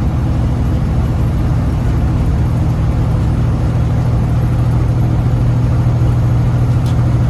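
Caterpillar diesel engine of a fully loaded Freightliner Classic big rig pulling slowly under load, heard from inside the cab as a steady low drone that grows slightly louder. It is struggling for power, which the driver puts down to the engine still breaking in after a rebuild.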